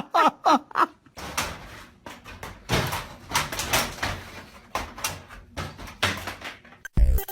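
A dog's quick, repeated yips, then a run of irregular knocks and rattles. Loud music cuts in near the end.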